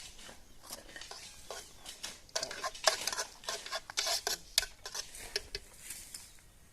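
Metal utensil scraping and clinking in a cooking pot, a quick run of clicks and scrapes that is busiest in the middle.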